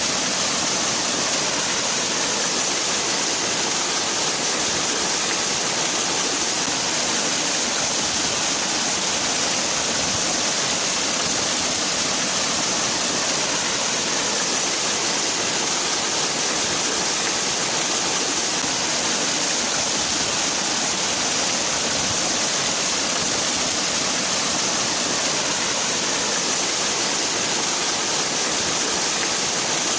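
Waterfall: water falling and splashing in a steady, unbroken rush, strongest in the hiss.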